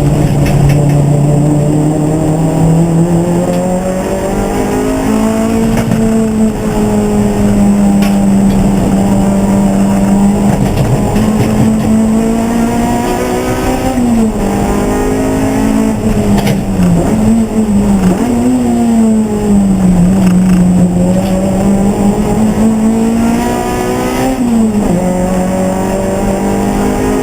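Race car engine running hard at steady high revs for a long stretch, its pitch briefly dropping and rising again several times, as with lifting off and changing gear for corners.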